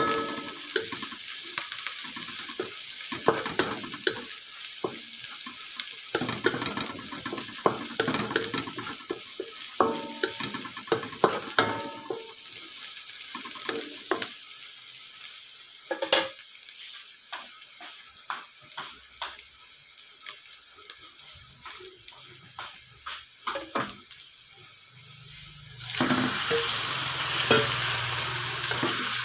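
Onion and garlic sizzling in oil in a nonstick wok, stirred with a wooden spatula that scrapes and taps the pan. About 26 seconds in, the sizzle suddenly grows louder as raw chicken livers go into the pan.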